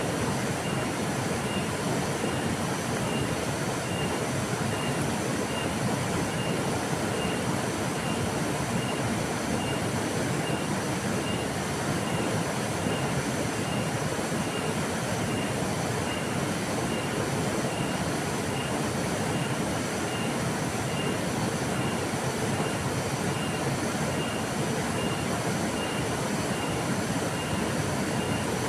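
River water flowing with a steady, even rush. A faint high chirp repeats about three times every two seconds throughout.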